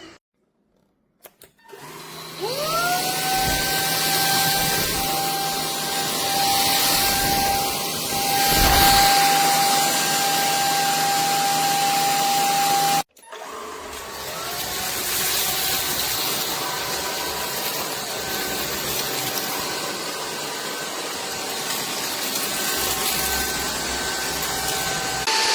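SKIWEC cordless stick vacuum cleaner switched on, its motor spinning up with a rising whine and then running at a steady pitch over a wide hiss of airflow. About halfway through it cuts out abruptly, then spins up again and runs steadily.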